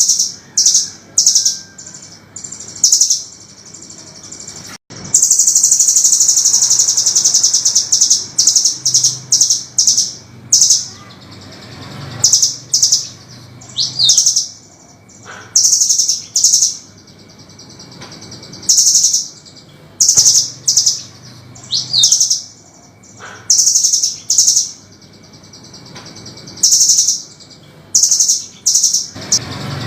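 Velvet-fronted nuthatch calling: a series of short, sharp, high-pitched notes in quick bursts, with a long, rapid, continuous trill about five seconds in.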